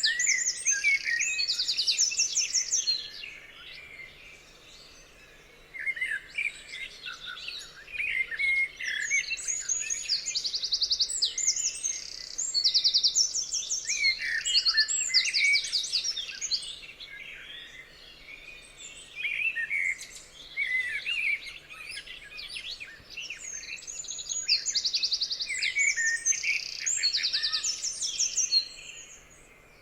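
Several songbirds singing at once, overlapping rapid high trills and chirping phrases, with short lulls twice between bursts of song.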